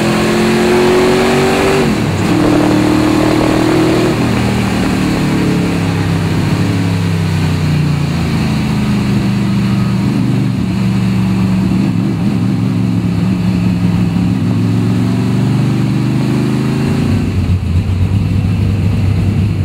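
Souped-up 1970 Ford Mustang's engine heard from inside the cabin, pulling hard under acceleration: its note climbs, drops sharply at a gearshift about two seconds in, climbs again, then holds fairly steady. Near the end it falls to a lower, steady note as the car slows.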